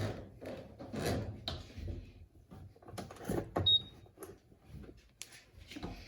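Irregular knocks, bumps and rustles of a plastic drain hose being handled and set into a washing machine tub, with a brief high tone about three and a half seconds in.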